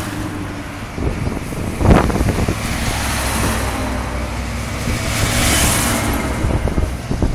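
A road vehicle driving past, its low engine hum setting in about three seconds in and its tyre hiss swelling a couple of seconds later, with a sharp knock about two seconds in.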